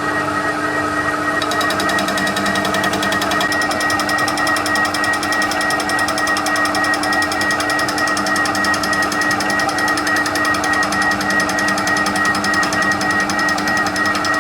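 TOS milling machine running with a fly cutter taking a light pass across a hard cast steel exhaust manifold. A rapid, even clatter of the interrupted cut comes in about a second and a half in and grows stronger a couple of seconds later, over the machine's steady hum.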